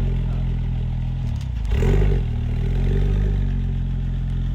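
Car engine running at low speed as a car rolls in, with a brief rev about two seconds in.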